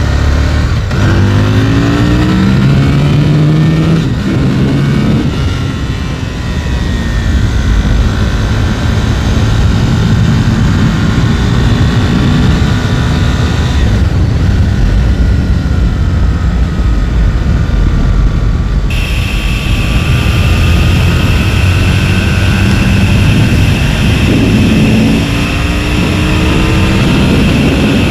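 Aprilia RSV Mille's V-twin engine under way, revving up in steps as it pulls through the gears near the start and again near the end, with steady wind noise over it.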